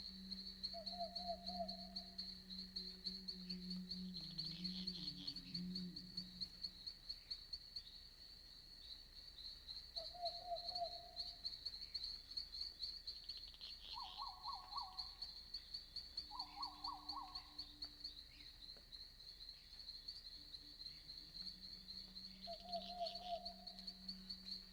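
Night-time forest ambience: crickets chirping in a continuous high, fast-pulsing chorus. Short trilled calls from another night animal come five times, a pair of them higher-pitched in the middle, over a low steady drone that fades out after about six seconds and returns near the end.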